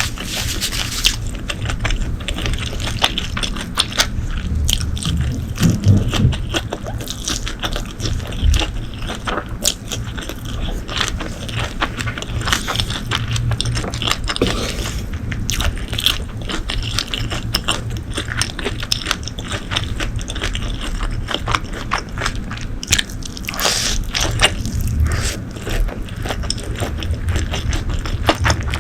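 Close-miked eating sounds: biting and chewing food, with a continuous run of irregular wet clicks and crunches.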